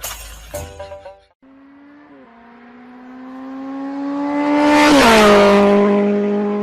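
A motor vehicle passing by: a steady engine note grows louder, then drops in pitch as it goes past, with road noise swelling at the moment of passing.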